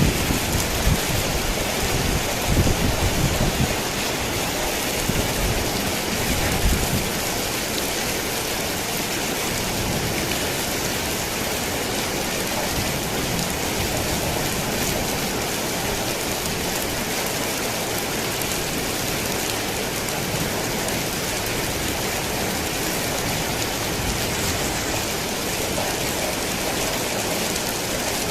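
Steady rain pattering on a tin roof, with low thunder rumbling during the first several seconds before fading out.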